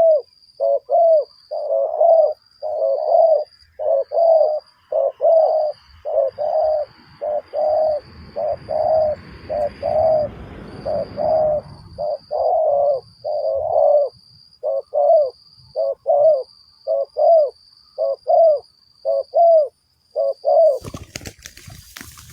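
Spotted doves cooing: a long run of short coos, more than one a second, with a faint high-pitched repeated buzz behind them. Low rustling swells midway, and clattering rustles come in near the end.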